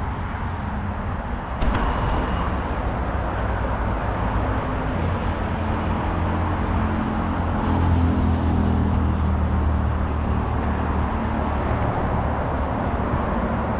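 Steady road-traffic rumble, swelling as a vehicle passes about eight seconds in, with a single sharp click near the start.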